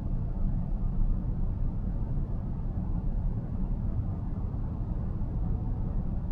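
Steady low road and tyre rumble of a car driving along, heard from inside the cabin.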